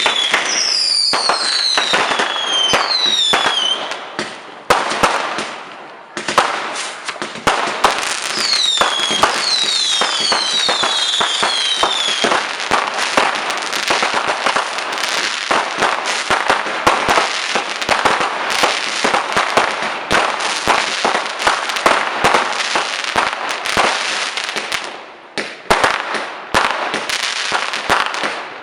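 Fireworks going off in a dense barrage of sharp crackles and bangs. Several whistles fall in pitch in the first few seconds and again around ten seconds in. The crackling eases off briefly twice, about five seconds in and near the end.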